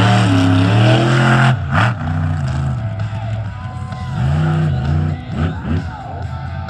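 Monster truck engine at high revs, then a sudden bang about a second and a half in, followed by a series of short throttle blips that rise and fall in pitch.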